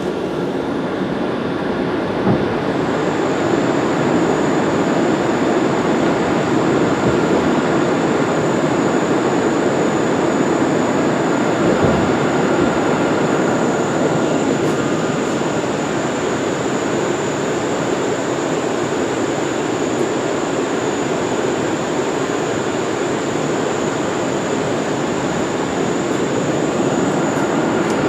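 New York City subway train running on the Rockaway Line, a steady rumble of wheels on track. A thin high steady whine comes in a couple of seconds in and holds.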